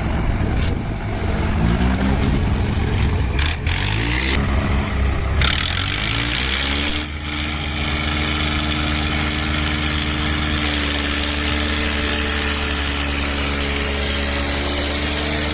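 Swaraj tractor diesel engines straining in a tug of war. The engine pitch wavers up and down for the first several seconds, then settles into a steady, even pull about seven seconds in.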